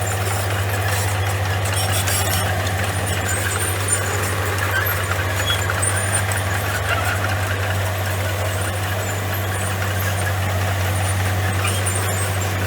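Komatsu bulldozer's diesel engine running steadily at a constant pitch, a low drone with scattered metallic clinks over it.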